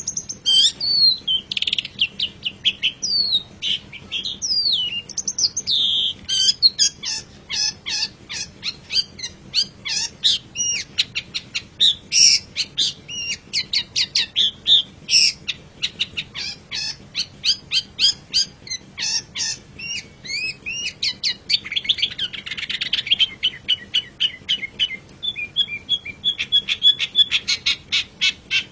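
Long-tailed shrike (cendet) singing: a few varied sweeping whistles, then long runs of quick, sharp chattering notes, with a harsh rasping burst a little past two-thirds of the way through.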